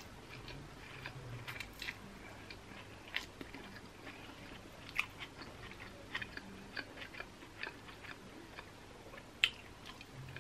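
Close-up chewing of a big mouthful of stir-fried yakisoba noodles: soft, wet mouth clicks and smacks scattered irregularly through.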